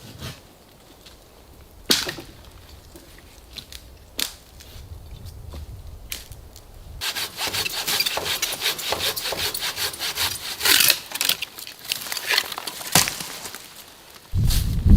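Wood being sawn by hand: a few sharp knocks of wood at first, then about seven seconds in a run of rapid back-and-forth saw strokes lasting about six seconds. A low rumble comes in near the end.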